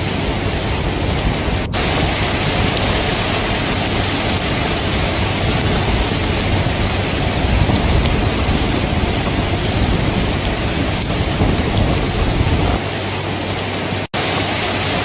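Steady heavy rain with a low rolling thunder rumble underneath that dies away about 13 seconds in, leaving the rain alone. The sound cuts out briefly near the end.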